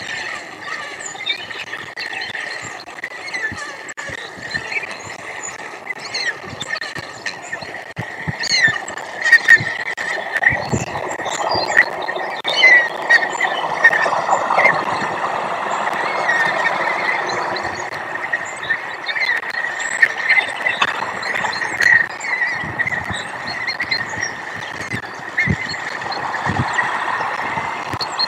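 A chorus of frogs croaking, louder in the middle of the stretch and again near the end, with many short high chirps from small birds over it.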